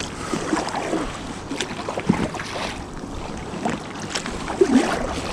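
Water splashing and lapping around a kayak as it is paddled, in irregular small splashes, with wind on the microphone.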